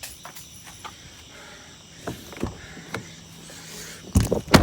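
A few light clicks and taps, then a car door slammed hard near the end: two heavy thuds about half a second apart.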